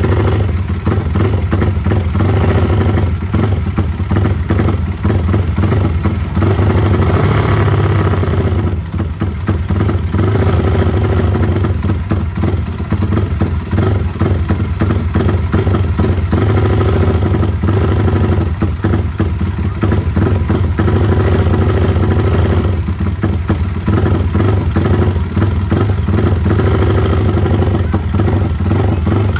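Race-tuned Yamaha Vixion single-cylinder motorcycle engine running steadily at idle, loud and unbroken.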